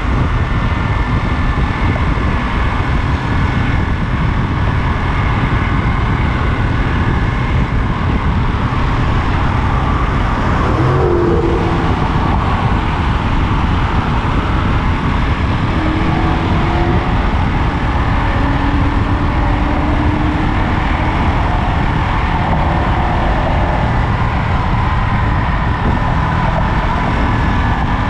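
Ducati Monster 937's L-twin engine running at steady highway speed, mixed with dense rushing wind noise.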